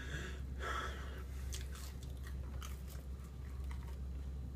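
People chewing chicken nuggets, with scattered soft mouth clicks and small ticks, over a steady low hum.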